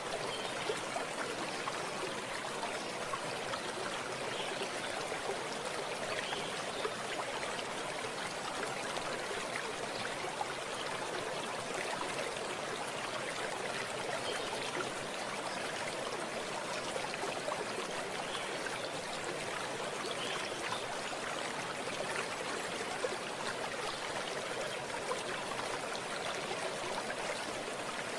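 Running water in a small stream, an even rushing babble with small splashes throughout.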